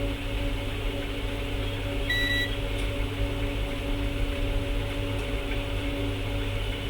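Steady electrical hum from powered bench repair equipment, with a single short high beep about two seconds in.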